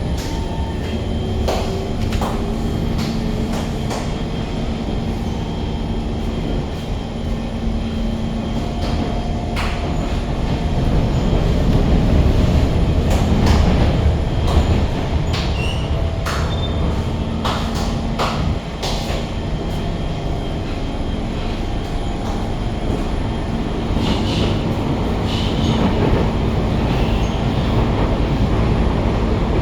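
C151 MRT train running between stations, heard from inside the car: a steady low rumble with a motor hum, many sharp clicks from the wheels and car, and some wheel squeal. It grows louder about eleven seconds in, then eases off again.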